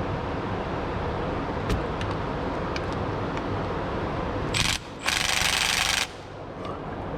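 Pneumatic ratchet run in two bursts, a short one and then one of about a second, while undoing oil pan bolts, with a few light metal clicks before it and a steady shop hum underneath.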